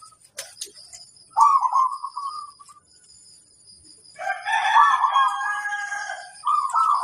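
Zebra dove (perkutut) cooing its low, rolling song twice, with a rooster crowing loudly for about two seconds in between.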